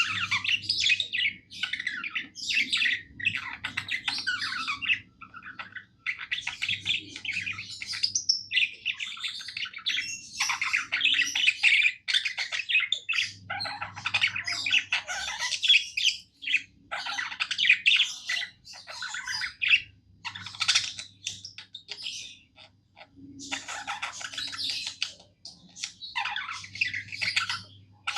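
Budgerigar warbling: a fast run of chirps, chatter and squawks in phrases a second or few long, broken by short pauses.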